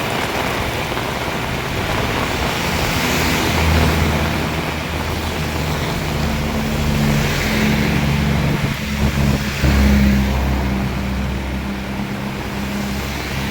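Heavy rain pouring steadily, with a motor vehicle's engine running close by from about three seconds in as a low hum that lasts most of the way and dies away near the end.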